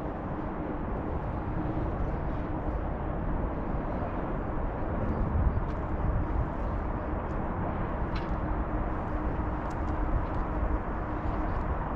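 Steady outdoor background noise, a low even rumble with a faint steady hum and a few light ticks.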